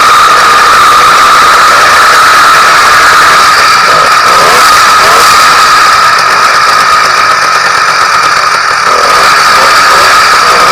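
Newly ported YD100 two-stroke bicycle engine running on its first break-in run, loud and steady with a high-pitched whine.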